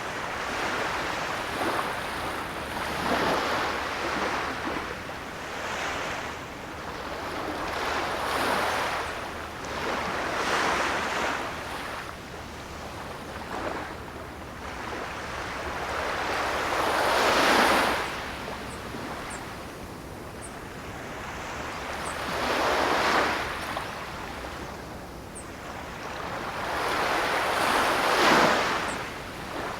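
Ocean waves surging and washing in one after another every few seconds, each swell rising and then falling away. The biggest breaks come about halfway through and twice near the end.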